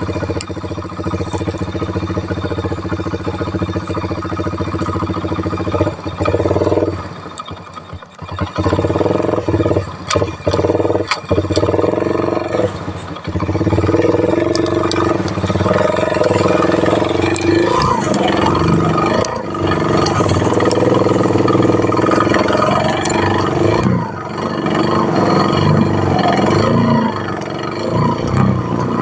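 Motorcycle engine running at light throttle while riding over a rough road, with the revs dipping and rising and the bike clattering over bumps.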